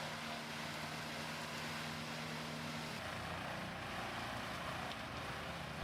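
Vermeer WC2300XL whole tree chipper running steadily, a low engine hum under a wash of machine noise; the hum drops out about three seconds in.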